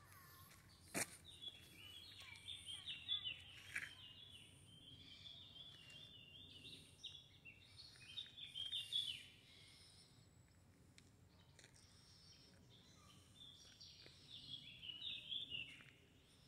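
A songbird singing in runs of quick, high chirping notes: one long run that stops about ten seconds in, and another near the end, over faint low outdoor background noise. One sharp click about a second in.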